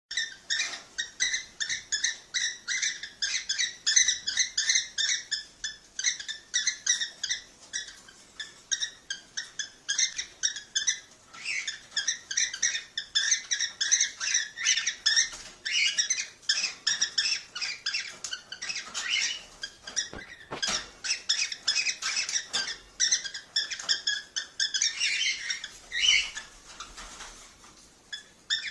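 Cockatiel chirping and warbling: rapid runs of short, high chirps, several a second, with brief lulls.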